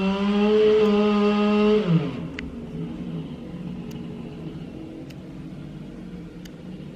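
Chainsaw running at high speed. The throttle is let off about two seconds in, and the pitch falls to a lower, quieter running, with a few light clicks after.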